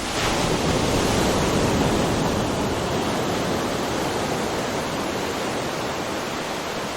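Ocean surf: a wave breaking and washing in, swelling just at the start, strongest in the first couple of seconds, then slowly easing into a steady rush.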